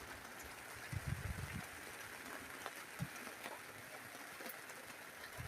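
Steady hiss of rain, with a few soft low thumps.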